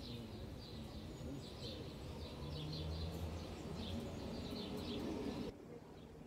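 Small birds chirping in quick repeated bursts over a low, steady outdoor rumble; both cut off suddenly about five and a half seconds in.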